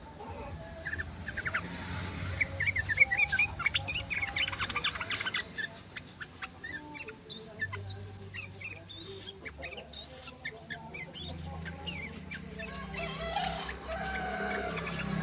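Yellow-vented bulbul (trucukan) singing: a run of quick, chattering chirps and short whistled glides.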